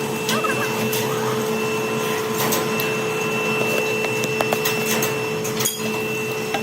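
A workshop machine running steadily with a constant whine over a low hum, with scattered sharp clicks and knocks.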